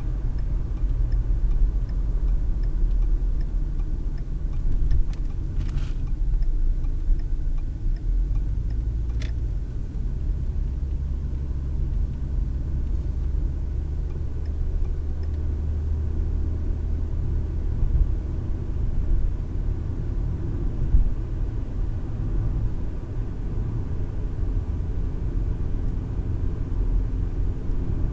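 Car cabin sound while driving, heard through a dash cam's microphone: steady low road and engine rumble. A faint regular ticking runs through the first several seconds, and there is a sharp click about nine seconds in.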